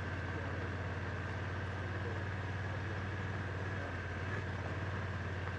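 A Honda Africa Twin's parallel-twin engine running at a steady, unchanging low note.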